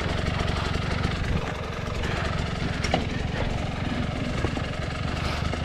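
Two-stroke enduro dirt bike engine running at fairly steady low revs while the rider works the bike on a steep, slippery climb.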